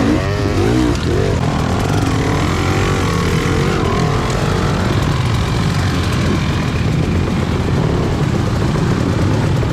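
Off-road motorcycle engines running, with the revs wavering up and down in the first second or so, then a steady engine drone.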